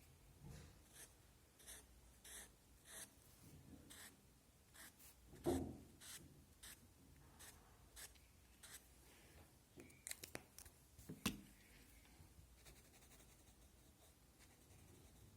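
Faint strokes of a drawing tool on paper, short and repeated about twice a second, as details are drawn in. A soft knock comes about five and a half seconds in, and a few sharp clicks come around ten to eleven seconds in.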